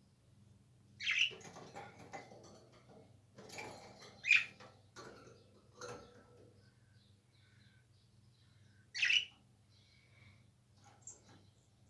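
Small pet parrots calling: three short, loud, sharp squawks about one, four and nine seconds in, with softer chirps and chatter between.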